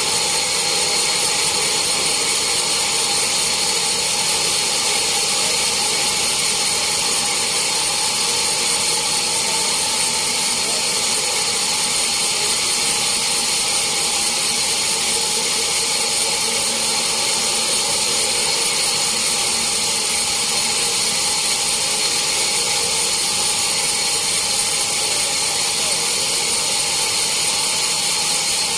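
Sawmill saw machinery running steadily: a loud, even whine with several fixed high tones over a strong hiss, unchanging throughout.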